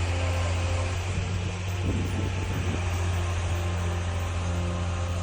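Steady low rumble and hiss of road vehicle noise, with no clear change through the stretch.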